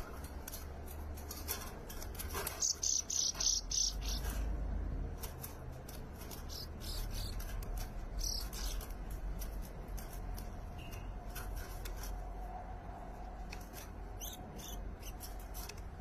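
Bursts of high, rapid bird chirps, loudest about three seconds in, again around eight seconds and near the end, among scattered sharp clicks over a low rumble.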